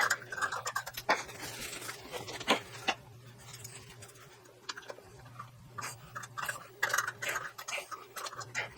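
Hand thread tap cutting threads in 1/8-inch steel: irregular clicks and scrapes of the tap and its wrench, over a steady low hum.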